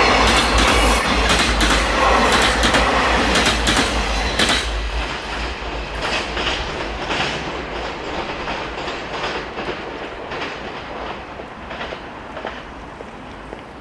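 Freight train wagons passing close, the wheels clacking over rail joints; the loud rush ends about four and a half seconds in as the last wagon goes by, and the clatter then fades as the train moves away.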